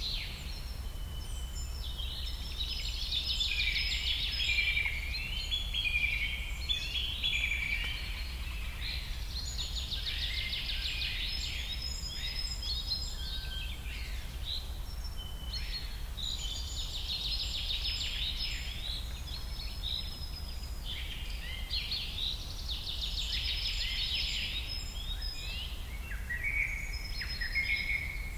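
Birds chirping and singing in a continuous stream of short, high calls and quick pitch glides, over a low steady hum.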